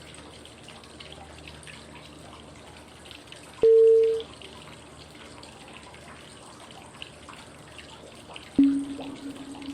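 Steady flowing-water white noise carrying electronic cue tones that pace 5-5-5 breathing (inhale, hold, exhale, five seconds each). A short, loud mid-pitched tone sounds about three and a half seconds in. Five seconds later a lower, longer tone sounds and fades out. Each tone starts with a click.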